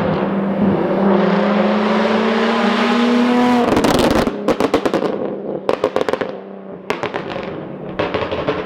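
2006 Infiniti G35 Coupe's 3.5-litre V6 through a Tomei single-exit exhaust with test pipes, revving up with a steadily rising pitch for about three and a half seconds. It then drops off the throttle and the exhaust crackles and pops in quick irregular bursts for several seconds.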